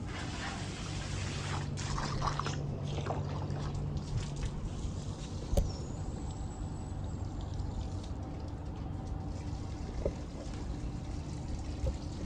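Water mixed with apple cider vinegar being poured and trickling into a pigeons' bath basin, fuller for the first few seconds and then softer. A low steady hum runs underneath, with a single sharp click about halfway.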